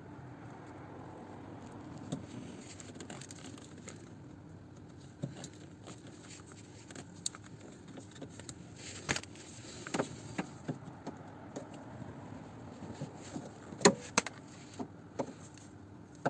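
Scattered clicks and small knocks of hand work on a car's underside, tools and small parts being handled, with one sharper knock near the end.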